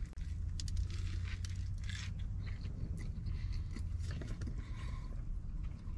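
A person biting into and chewing a sub sandwich with breaded chicken pieces: scattered soft crunches and wet mouth clicks close to the microphone, over a steady low hum.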